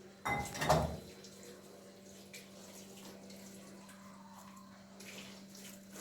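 A brief splash or gush of water, lasting under a second, near the start, followed by faint small sounds over a steady low hum.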